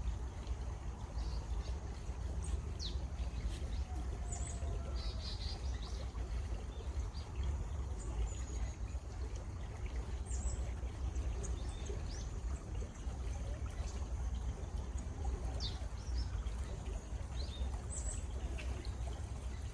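Water running steadily in a stream, with small birds chirping now and then: short trills, quick falling whistles and single chirps.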